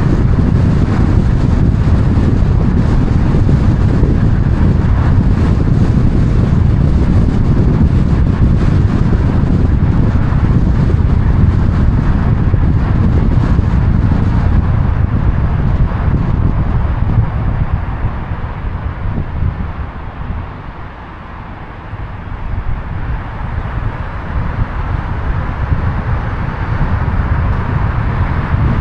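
Outdoor ambience: a steady low rumble of wind and road traffic, which drops away about twenty seconds in and then builds back up.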